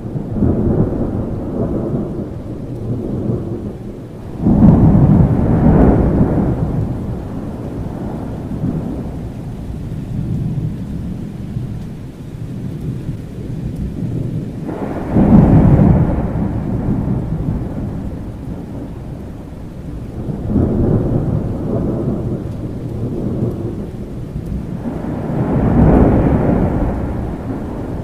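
Thunderstorm: steady rain under a series of rolling thunder rumbles, about five in all, each swelling and slowly fading; the loudest come on suddenly about four and fifteen seconds in.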